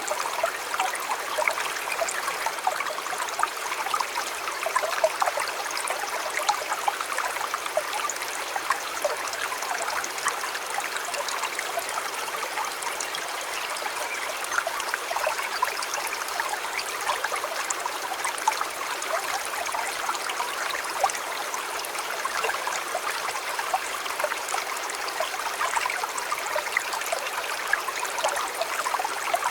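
Small river or stream flowing steadily, a continuous babble of water over stones with many small splashes and gurgles.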